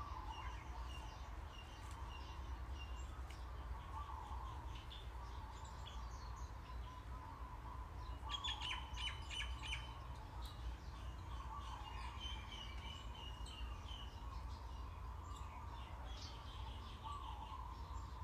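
Birds chirping and calling, with a quick rattling run of notes about eight seconds in; a steady low hum runs underneath.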